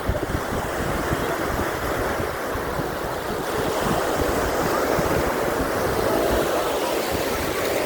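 Surf washing on a beach, with wind buffeting the microphone. A faint steady hum comes in near the end.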